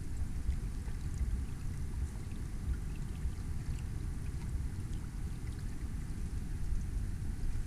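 Water trickling and lapping against the hull of a small inflatable sailing boat under sail, with small splashy ticks scattered throughout, over a steady low wind rumble on the microphone.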